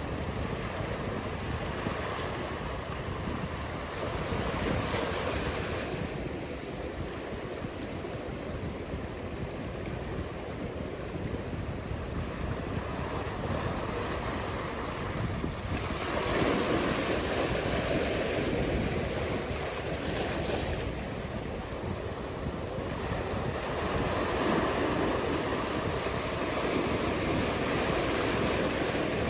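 Ocean surf: waves breaking and washing in a steady rush that swells and ebbs, louder about halfway through and again near the end, with some wind on the microphone.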